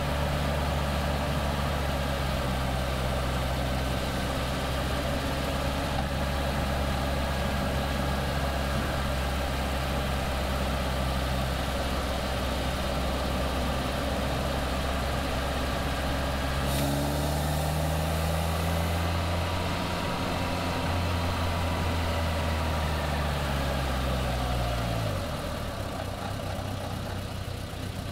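Caterham Seven engine pulling steadily at speed, with wind and road noise over the open car. About two-thirds of the way through the revs rise, then the engine note drops away and the sound fades near the end.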